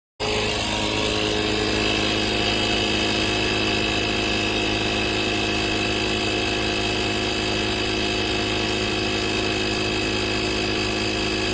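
FADAKWALT portable 12V tire inflator's compressor running steadily, with a constant high whine over its motor hum. It cuts in abruptly just after the start.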